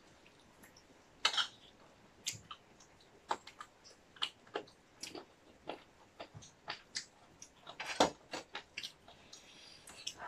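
Close-up eating sounds: chewing with irregular soft clicks and smacks, and the occasional clink of a metal spoon on a plate. One sharper click comes about eight seconds in.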